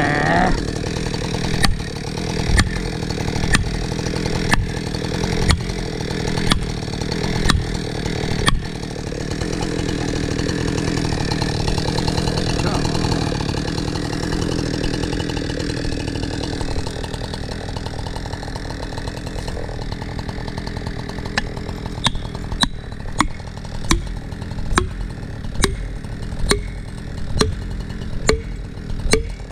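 Husqvarna chainsaw running steadily while a felling wedge is driven with sharp blows: about one blow a second for the first several seconds, then a faster run of blows in the last third.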